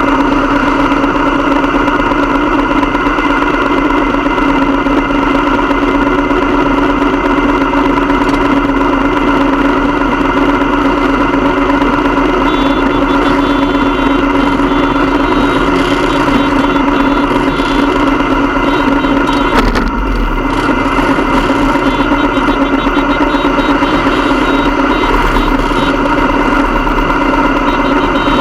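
Motorcycle engine running steadily at an even pitch with no revving, with a single sharp click about two-thirds of the way through.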